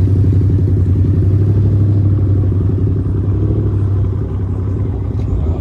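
A car engine running close by, a loud, steady, low exhaust rumble that swells at the start and eases off slightly toward the end.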